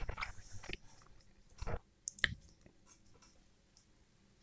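Close-miked chewing of roast chicken: soft wet mouth clicks and smacks in the first second, a duller knock and then a sharp click a little after two seconds.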